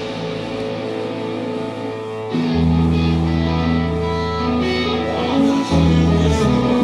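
A live rock band playing an instrumental passage, led by guitars over held bass notes, with the bass changing notes about two and a half seconds in and again near the end.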